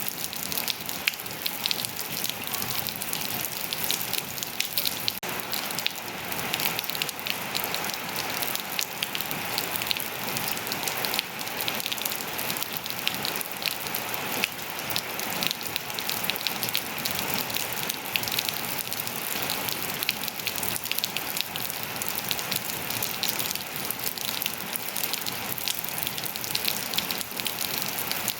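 Steady rain pattering on surfaces, a dense hiss of many small drop ticks.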